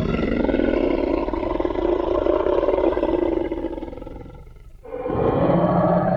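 Designed Tyrannosaurus rex roar sound effect: a long, deep roar that fades out about four and a half seconds in, followed by a second roar starting sharply about a second later.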